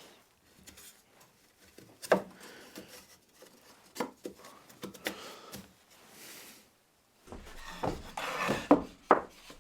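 MDF boards being handled and fitted together: several sharp wooden knocks with stretches of sliding and scraping between them, busiest near the end.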